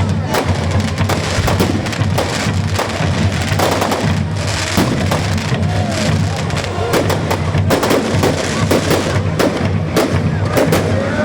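Fireworks going off, with many sharp bangs and crackles in quick succession and a short whistle about six seconds in, over music playing.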